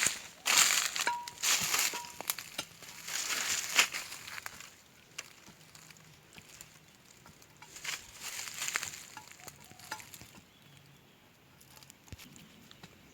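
Crunching, crackling rustle in bursts, loudest in the first four seconds and again about eight seconds in, then fading to a faint rustle.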